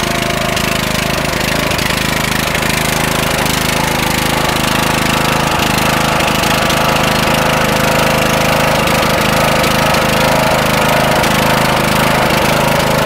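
An engine running steadily at low, even speed.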